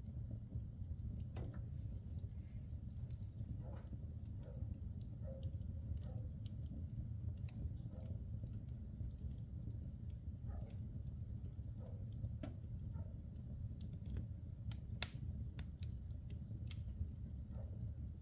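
Wood fire burning in a fireplace: a steady low rumble of flames with irregular crackles and small pops from the burning logs, one sharper pop about 15 seconds in.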